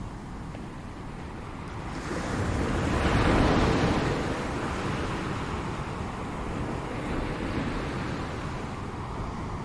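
Ocean waves breaking on a shore: one wave builds about two seconds in, crashes loudest around three and a half seconds, and washes out slowly, over a steady low rumble of surf.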